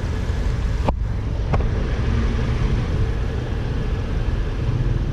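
Steady low rumble of motor vehicles, with a brief break in the sound just under a second in and a short click about half a second later.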